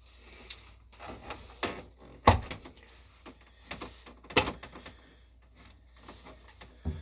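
Handling clatter of a countertop dishwasher's drain fitting being pressed against a wet kitchen sink: light clicks and rustles with two sharp knocks about two seconds apart.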